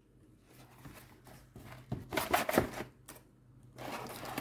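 Rustling and a scatter of clicks and taps as a diamond painting kit's packaging is handled and its contents are pulled out. The handling is busiest about two seconds in.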